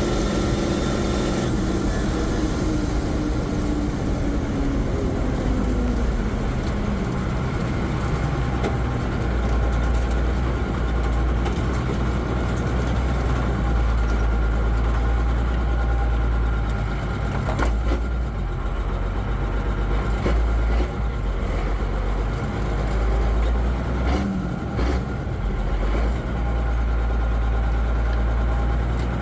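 M35A2 deuce-and-a-half truck's multifuel diesel engine and drivetrain running. A whine falls steadily in pitch over the first eight seconds, then the truck settles into a steady low rumble.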